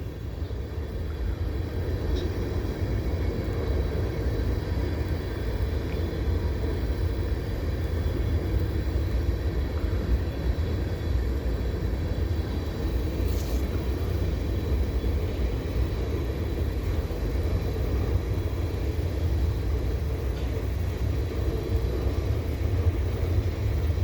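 Freight cars of a long mixed freight train rolling past, a steady low rumble of wheels on rail.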